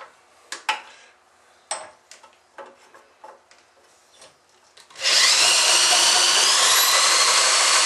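A few light clicks and clacks of handling, then about five seconds in an electric drill motor starts abruptly and runs loud and steady, its high whine rising a little in pitch.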